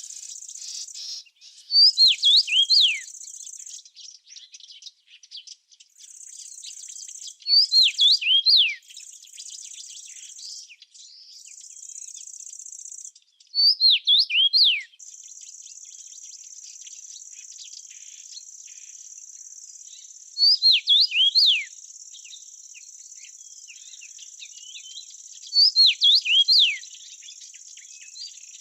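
A songbird singing the same short phrase five times, about every six seconds, each a quick run of downward-sliding whistled notes lasting a second or so. Under it a steady high-pitched insect trill, broken up at first and unbroken from about halfway.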